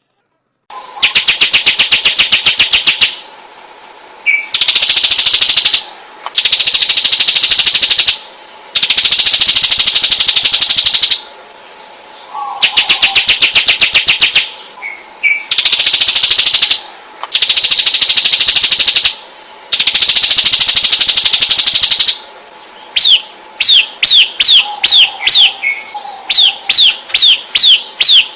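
A songbird singing loudly in long, fast rattling phrases of rapidly repeated high notes, each lasting two to three seconds with brief pauses between. Near the end it switches to a quick series of downward-sweeping whistles, about three a second.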